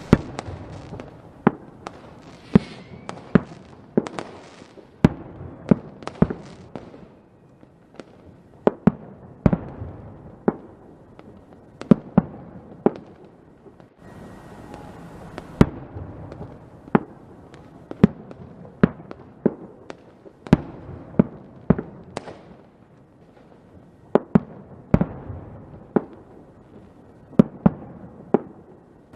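Fireworks going off: a string of sharp, irregular bangs, some in quick clusters, over a steady crackle, easing briefly about a third of the way through.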